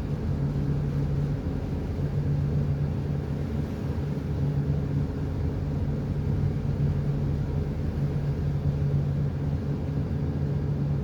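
A tugboat's engine running steadily: a constant low drone with an even hum and no changes.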